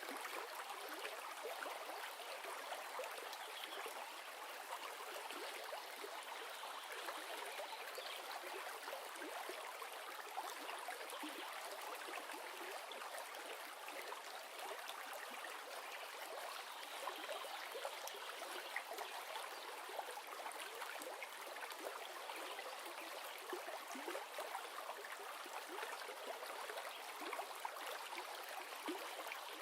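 River or stream water flowing over stones, a steady rushing babble with fine splashes.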